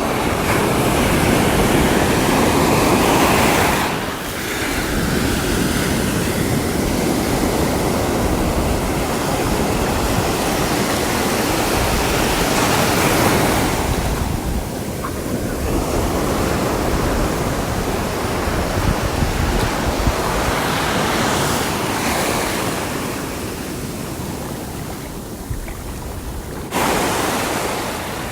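Sea waves breaking and washing on the shore, a continuous surf hiss that swells and falls back in several long surges.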